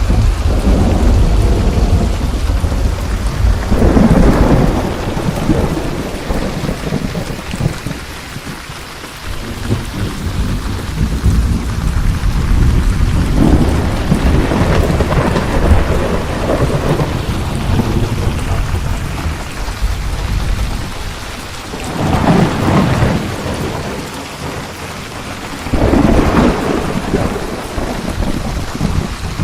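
Thunderstorm: steady heavy rain with rolling thunder, several deep rumbles swelling and fading, the loudest a few seconds in and twice more near the end.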